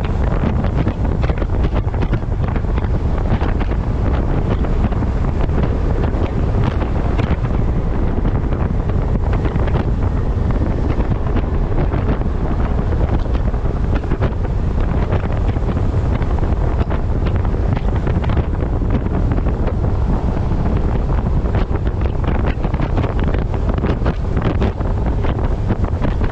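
Steady wind noise buffeting the microphone of a camera strapped to the front of a moving truck.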